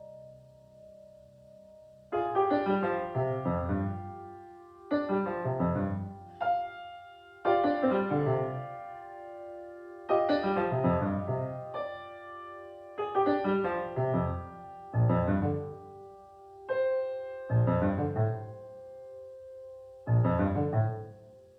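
Piano-toned keyboard playing a slow passage: a held chord fades out, then from about two seconds in a new chord is struck roughly every two and a half seconds and left to ring and die away.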